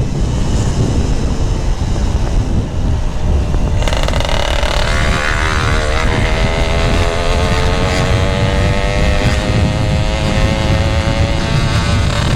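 Yamaha RX-King's two-stroke single with a GRT18 aftermarket exhaust running under way, its engine note climbing steadily from about five seconds in as the bike accelerates. Wind buffets the microphone.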